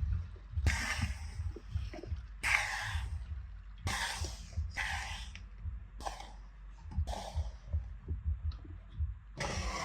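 Parts and tools being moved about on a workbench while the area is cleared: a series of short scraping and rustling noises, each under half a second, over a low steady rumble.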